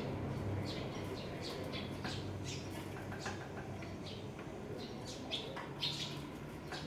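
Wild birds chirping in many quick, short calls, with a low cooing now and then.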